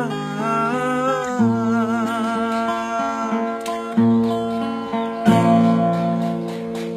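Acoustic guitar playing the intro of a song, chords struck every couple of seconds and left to ring, with a man's voice humming a wavering melody over it in the first half.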